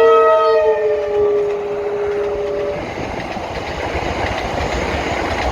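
X'trapolis Mega electric multiple unit sounding its horn, a steady two-note chord that drops slightly in pitch as the train passes. The horn cuts off a little under three seconds in, leaving the rush and rumble of the train running by.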